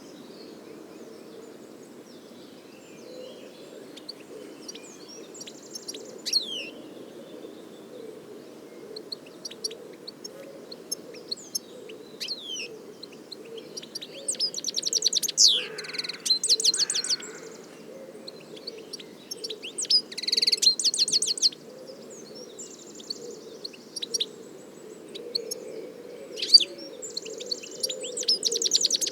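European goldfinch singing: bursts of rapid twittering, trills and buzzy notes, with gaps of only scattered chirps, over a steady low background hum.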